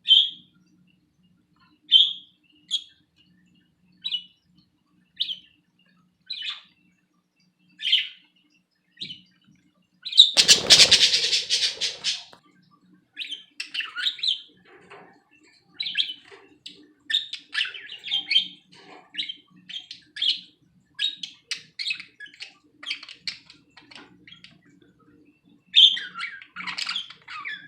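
Pet budgies chirping: single short, high chirps about once a second at first, then a loud noisy burst about ten seconds in, followed by quicker, busier chattering and squawky chirps.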